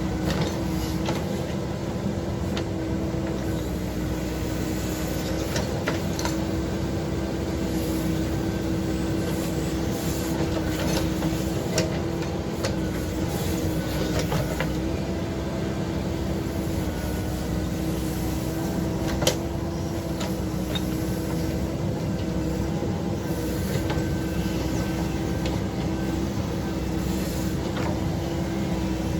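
Diesel engine of a heavy earthmoving machine running steadily with a constant drone, with occasional sharp clicks and knocks, the most distinct one about nineteen seconds in.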